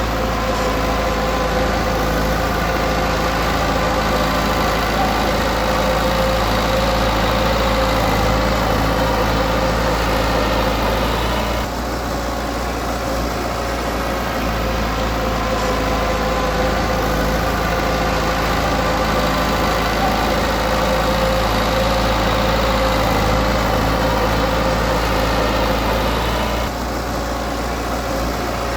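Diesel engine of heavy earthmoving machinery running steadily, with two brief dips in level, one about twelve seconds in and one near the end.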